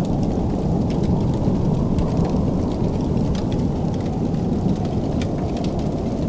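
Wood fire crackling in a fireplace: a steady low rushing noise with scattered sharp pops and snaps.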